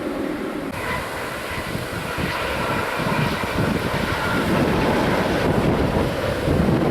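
Jet airliner's engines, growing steadily louder as the aircraft comes closer, with a high whine joining the noise under a second in.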